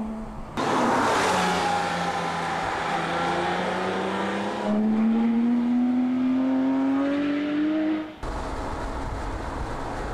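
Porsche 997 GT3's flat-six engine under way on the road: a burst of engine and tyre noise about half a second in, the note holding and easing for a few seconds, then climbing steadily as the car accelerates. Near the end it cuts to a low steady rumble.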